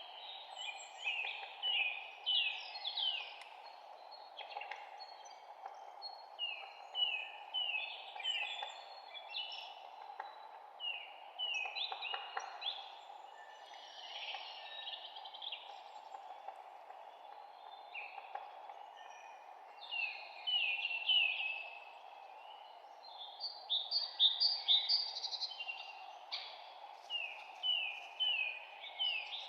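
Songbirds chirping and singing in quick, repeated falling notes over a steady low background hiss. The calls come thicker and louder in the last few seconds.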